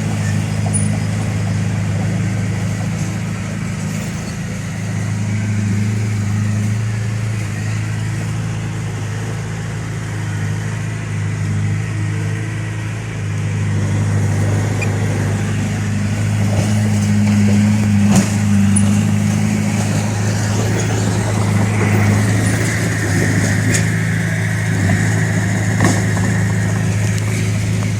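Bulldozer's diesel engine running under working load, its steady hum shifting in pitch and level and growing louder about halfway through. A few sharp metallic clanks come near the end, along with a brief higher whine.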